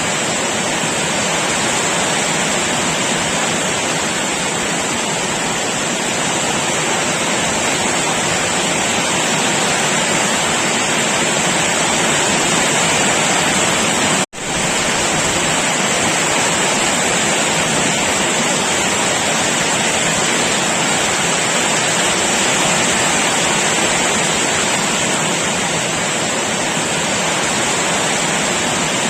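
Heavy rain pouring down steadily, a dense unbroken hiss. About halfway through it drops out for an instant, then carries on as before.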